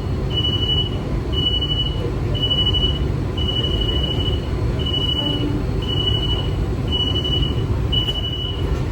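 Steady low rumble of an AC electric local train running, heard from inside the carriage, with a high electronic beep repeating about once a second.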